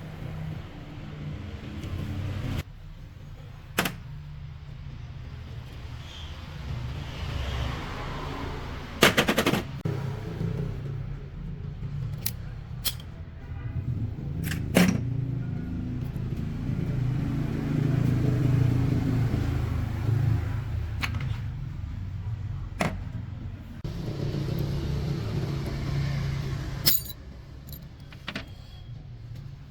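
Repeated sharp metallic knocks and clanks at irregular intervals, the loudest a quick cluster about nine seconds in, over a steady low rumble.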